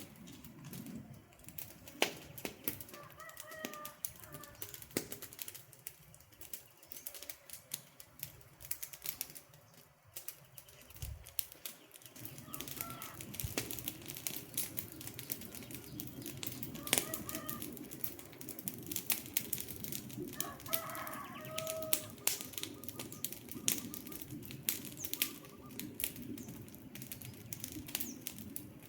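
Wood fire crackling and popping with irregular sharp snaps over a low, steady burning sound that grows fuller about halfway through. A few short bird calls come through now and then.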